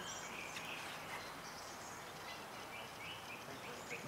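Birds chirping and calling, with short scattered calls over a steady outdoor hiss.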